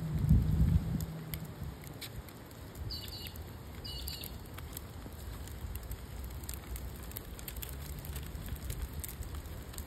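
Outdoor street ambience with a low rumble of wind on the microphone in the first second, then two short high bird calls about three and four seconds in.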